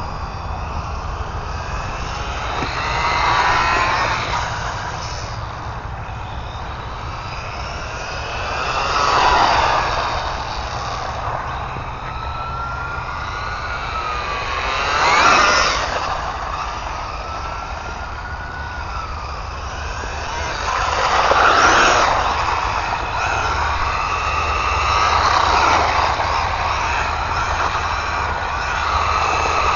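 An RC car's brushless electric motor whining as the car drives past about five times. Each pass swells in loudness with a whine that rises and falls in pitch, over a steady low rumble.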